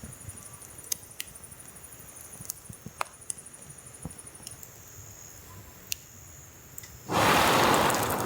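A campfire of hard-to-burn birch branches with sparse small crackles. About seven seconds in comes a long, breathy whoosh of air blown through a fire-blowing pipe to coax the poorly burning fire.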